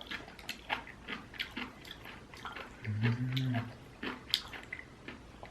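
A person chewing food close to the microphone, with many small wet mouth clicks, and a short hummed "mmm" of enjoyment about three seconds in.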